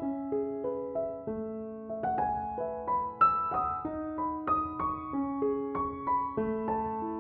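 Background piano music: gentle, slow notes struck a few to the second and left to ring over one another.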